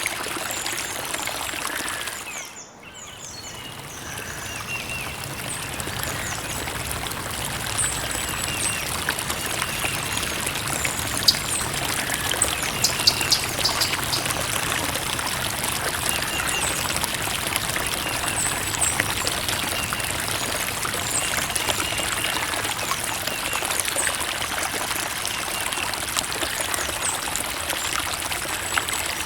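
Creek water trickling and flowing steadily. It briefly drops away about two and a half seconds in, then returns, and faint high chirps sound now and then over the water.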